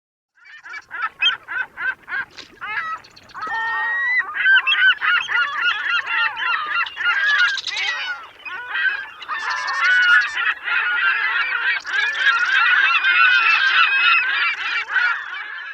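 Stock sound effect of a flock of birds calling: a run of short single calls about half a second in, then many overlapping calls from a few seconds in until it stops near the end.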